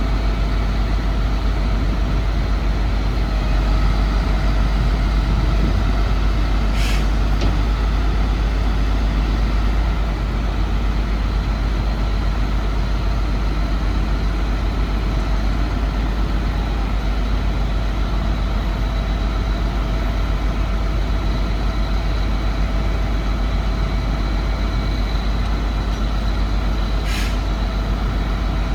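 Chevrolet C7500 medium-duty truck engine idling steadily. Two short hisses of air cut in about 7 and 27 seconds in.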